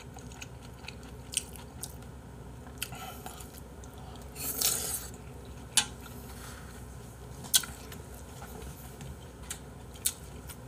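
A man chewing a mouthful of jjamppong-bap, with several short, sharp mouth clicks spread through and a brief louder noisy sound about four and a half seconds in.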